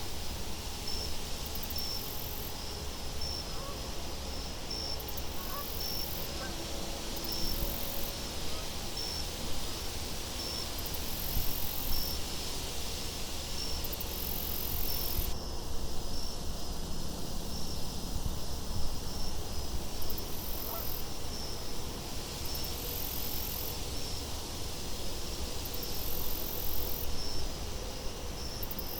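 Nature ambience of steady wind with regularly repeating insect chirps, like crickets, about once a second.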